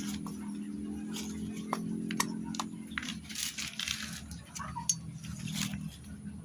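Small metal engine parts and tools clicking and tapping, a handful of sharp clicks spread across the middle, over a steady low hum that fades out about six seconds in.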